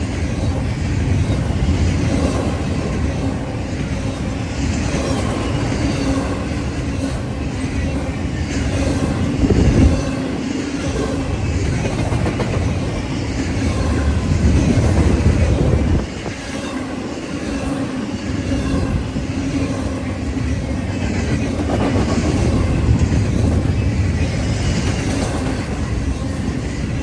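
Union Pacific train rolling past at close range: a steady, loud rumble of locomotives and wheels on the rails, with a short dip in level about two-thirds of the way through.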